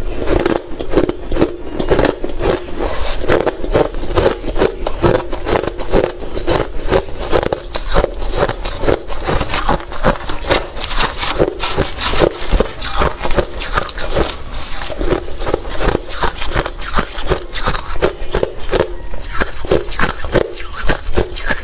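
A person chewing hard refrozen crushed ice: a steady run of loud, rapid crunches, several a second, with no pauses.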